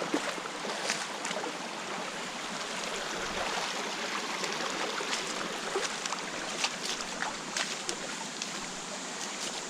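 Creek water running steadily over rocks, with scattered short clicks and taps through it.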